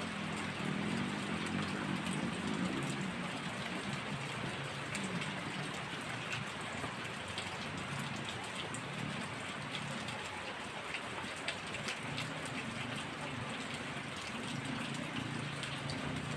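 Heavy rain falling steadily, with many individual drops ticking on surfaces and a low rumble wavering underneath.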